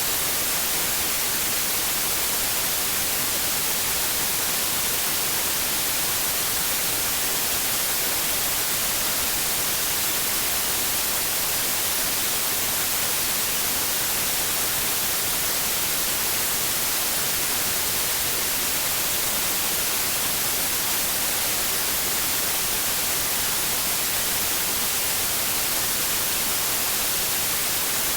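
Steady white noise: an even, unchanging hiss, strongest in the high pitches.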